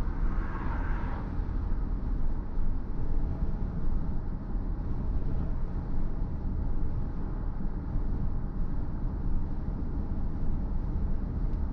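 Steady road and tyre rumble of a BMW i4 M50 electric car on the move, with a short higher hiss in the first second.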